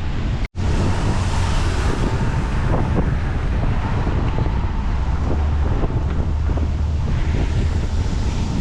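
Strong wind buffeting the microphone, a steady rumbling rush, with the sound cutting out completely for a split second about half a second in.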